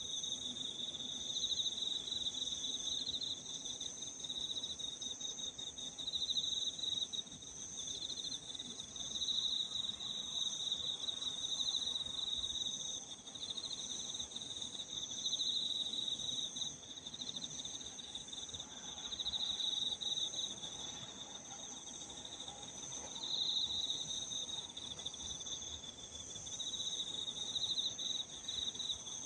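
Evening chorus of singing insects: a steady high trill runs under a slightly lower, pulsing trill that swells and fades every few seconds.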